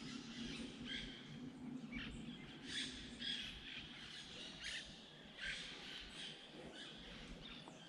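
Faint bird chirps: short calls every second or so over a low steady background.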